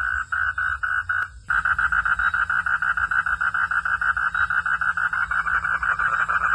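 Frogs calling in a rhythmic chorus of pulsed notes, about six a second. The calling breaks off briefly with a click just over a second in, then resumes with faster pulses.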